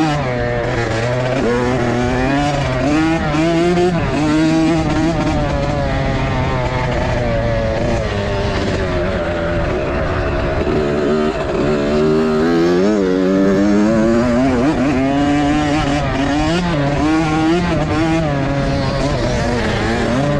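Several motocross dirt bikes riding a practice track, their engines revving up and falling back again and again as they accelerate and ease off, the notes of different bikes overlapping.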